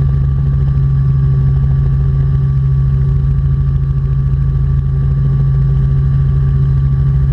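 Steady cabin drone of a Robinson R44 Clipper II helicopter in flight: its engine and rotors make a constant low hum with a few steady tones above it.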